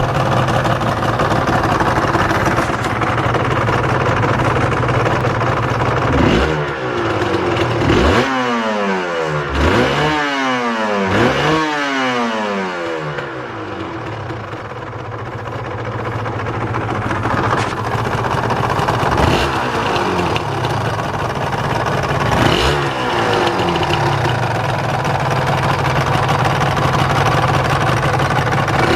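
Suzuki RGV-γ250SP's two-stroke V-twin engine idling, with sharp throttle blips that rev it up and let it fall back. Four quick revs come in a row in the middle, then a few more spaced out before it settles to idle.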